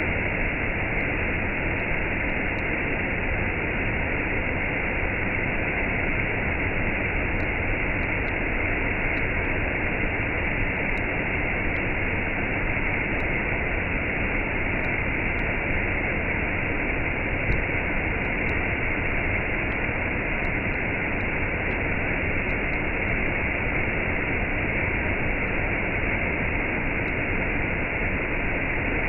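Waterfall pouring into a cascade: a steady, unbroken rush of falling water.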